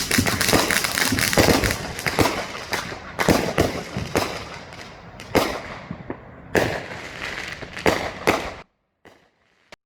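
Neighbourhood fireworks and firecrackers going off: a dense run of crackling pops that thins into separate sharp bangs, then cuts off suddenly near the end.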